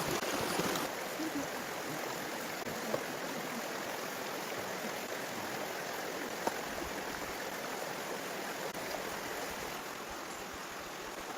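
Steady rush of running water, like a stream flowing, with a couple of faint clicks.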